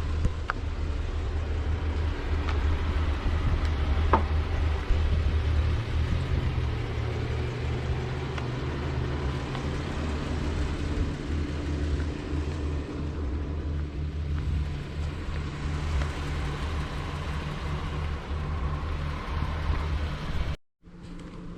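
Jeep Wrangler Rubicon engine running at low trail speed, a steady low hum whose pitch climbs a little about six seconds in. It cuts off abruptly near the end.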